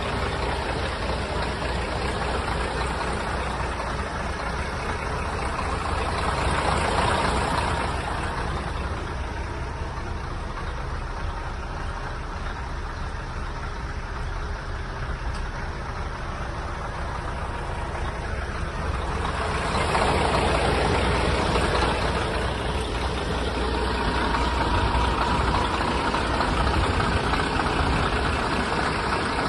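Scania R420 truck's 12-litre straight-six diesel engine running with a steady low rumble, swelling louder twice: briefly about seven seconds in, and again from about twenty seconds on.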